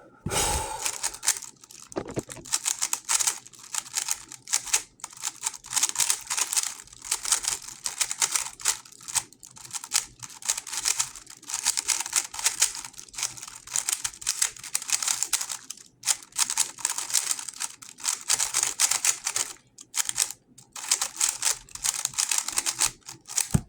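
A GAN 11 M Pro magnetic 3x3 speedcube turned rapidly through a timed solve: a fast, continuous clatter of plastic layer clicks, with a couple of brief pauses.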